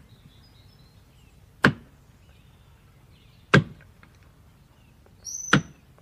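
Axe blows chopping into a tree trunk: three heavy single strikes, evenly spaced about two seconds apart, each ringing briefly. A short high-pitched tone sounds just before the third strike.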